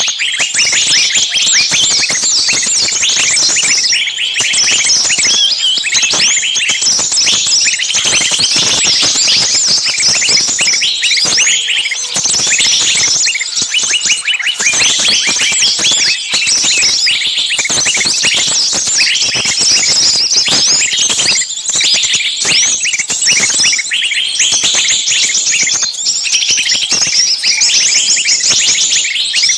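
A dense, continuous chorus of many quick high chirps overlapping without pause, like a large flock of small birds calling at once.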